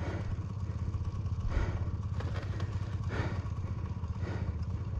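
Enduro motorcycle engine running steadily at low revs, with a few short swishes of noise over it.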